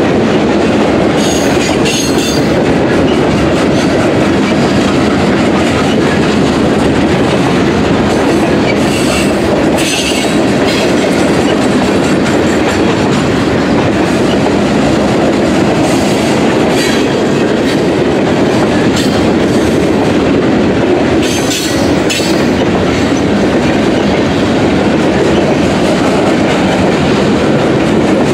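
Freight train of boxcars rolling past at close range: a steady, loud rumble of steel wheels on rail, broken a few times by brief high squeals.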